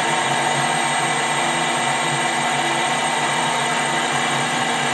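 Metal lathe running steadily, a constant machine hum with several held tones from its motor and gearing.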